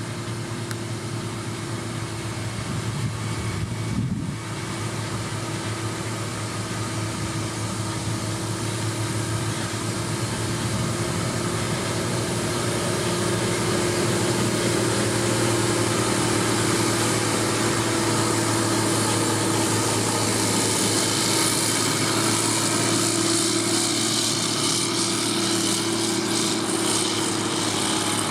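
Heavy road-construction machine engine running steadily, with a constant hum that grows louder and harsher about halfway through.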